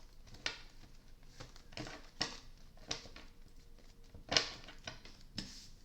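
Soft rustles and taps of tarot cards being handled, half a dozen short sounds a second or so apart, the loudest about four seconds in.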